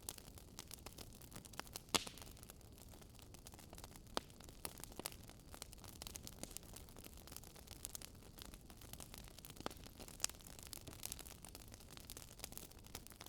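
Campfire crackling faintly: irregular sharp pops and snaps of burning wood over a soft steady hiss.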